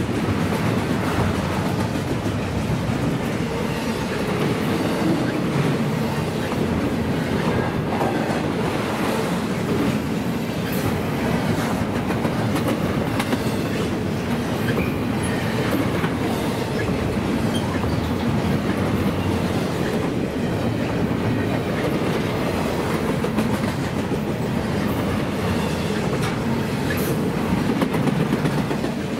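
Double-stack intermodal freight train of container well cars rolling past at close range: a steady, unbroken rumble of steel wheels on the rails.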